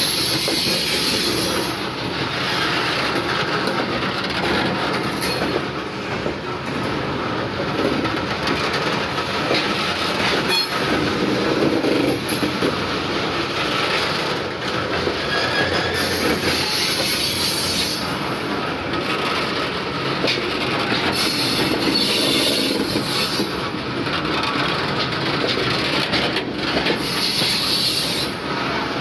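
Freight train of steel covered hopper wagons rolling past close by: a steady rumble and clatter of wheels over the rail joints, with high-pitched wheel squeal that comes and goes several times.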